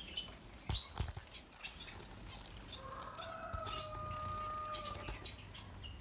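Small cage birds chirping faintly, with a few sharp knocks just before a second in and a steady whistle-like tone held for about two seconds in the middle.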